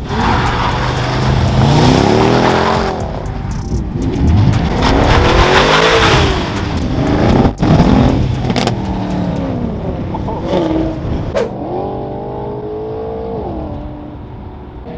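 Car engine revving and accelerating hard, rising and falling in pitch several times, then settling to a steadier, slowly dropping note near the end.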